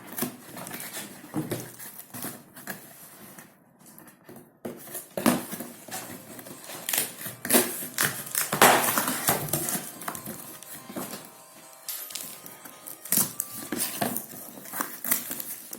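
A boxed parcel being wrestled open by hand: a string of knocks, scrapes and rustles of cardboard and packaging, with some clattering, busiest and loudest in the middle.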